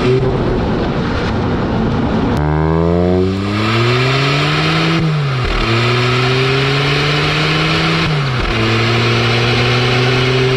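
Hyundai i20 N Line's 1.0-litre three-cylinder turbo-petrol engine and sport exhaust under hard acceleration. The pitch climbs steadily and drops sharply twice, about five and a half and eight and a half seconds in, as the dual-clutch gearbox upshifts.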